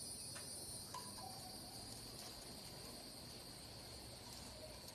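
Faint, steady, high-pitched chorus of insects, most likely crickets, chirring without a break.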